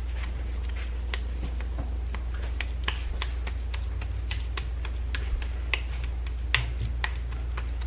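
Raw ground beef being rolled and pressed into a ball by hand: many faint, irregular sticky clicks and smacks, over a steady low hum.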